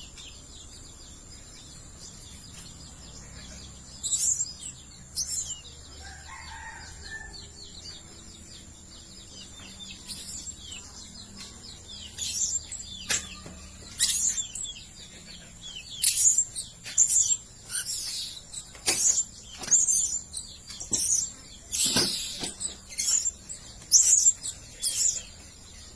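Blue-crowned hanging parrots giving short, high-pitched chirping calls, a few about four seconds in, then coming quickly one after another from about ten seconds on, over a steady faint hiss.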